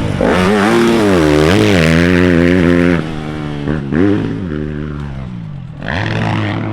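Dirt bike engine revving, its pitch rising and falling over and over. It eases off about three seconds in, then revs up again near the end.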